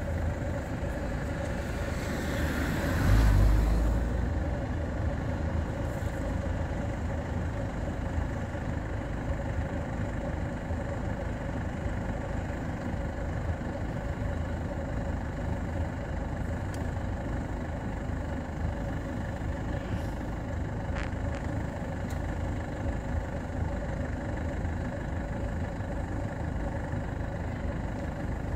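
Car engine idling steadily, heard from inside the car. About three seconds in, another car passes close by, rising louder and then fading.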